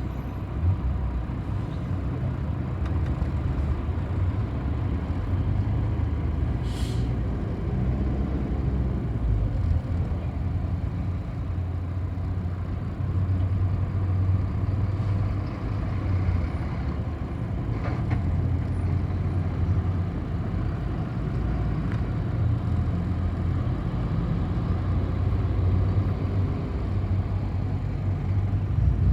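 City bus under way: a steady engine and road rumble, with one short hiss of compressed air about seven seconds in.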